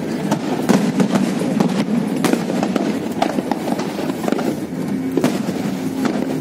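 Aerial fireworks bursting: a scattered run of sharp cracks and pops over a steady background din.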